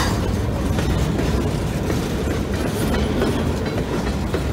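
Freight cars rolling past close by: a steady rumble of steel wheels on the rails, with occasional clacks as the wheels cross rail joints.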